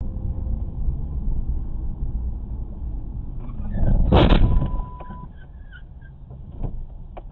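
Vehicle road rumble, then a loud crash about four seconds in, followed by a few quieter knocks and clicks.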